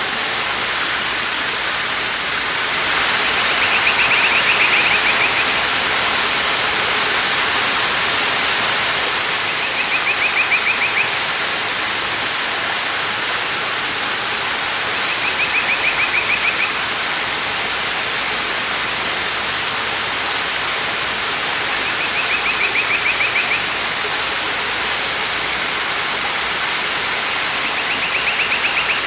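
Waterfall rushing steadily, with a high, rapid trill repeating five times, about every six seconds.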